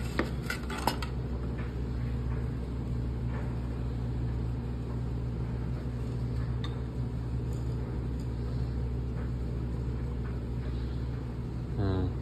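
A steady low mechanical hum, with a few sharp clicks and clatters about a second in.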